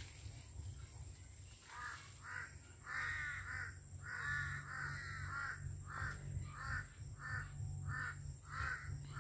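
A bird calling over and over: a string of short calls that rise and fall in pitch, about two to three a second, starting about two seconds in.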